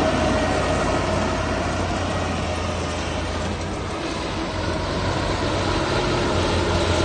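Heavy diesel earthmoving machinery running steadily with a deep engine hum. It eases off slightly around the middle and picks up again toward the end.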